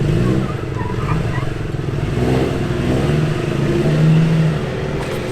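Off-road vehicle's engine revving up and down several times under load as it crawls up a rock obstacle, holding higher revs for a moment about four seconds in.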